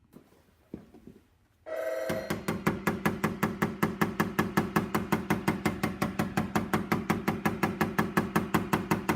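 A phone ringing: a rapid, evenly pulsing electronic ring tone that starts about two seconds in and keeps going, with a few faint taps before it.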